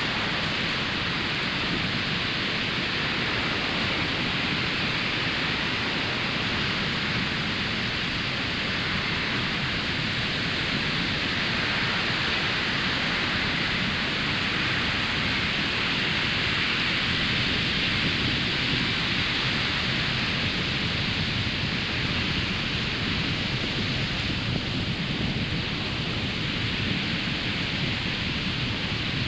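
Ocean surf washing onto a sandy beach: a continuous hiss and rumble of breaking waves that swells slightly midway.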